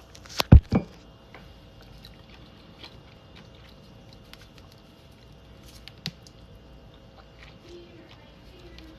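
Close-miked eating of clementine segments: a few loud, sudden sounds about half a second in, then quiet chewing with small wet clicks.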